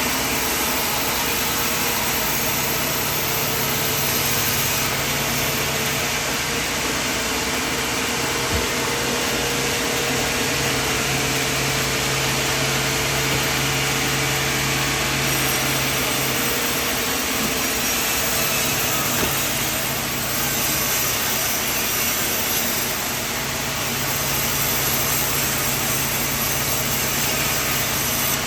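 Portable sawmill running steadily: an engine hum under a dense, even noise of the saw, with small shifts in tone about two-thirds through.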